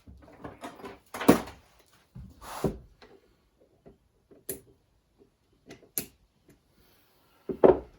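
Clicks and clunks of metal transmission parts being worked onto a shaft by hand, with a few louder knocks about a second in, around two and a half seconds in, and near the end.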